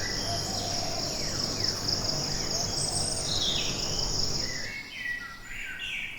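Tropical forest ambience: a steady high-pitched insect buzz with scattered bird chirps and calls. About four and a half seconds in, the buzz and the low background noise cut off, leaving the bird calls more exposed.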